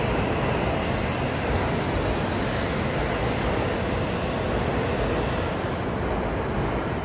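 Steady rushing noise of a Shinkansen train moving slowly alongside the platform.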